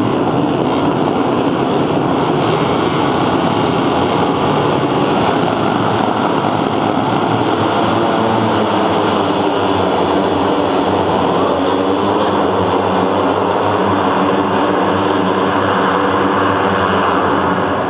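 MotoGP racing motorcycles' engines running at high revs, a loud steady din with no single pass standing out.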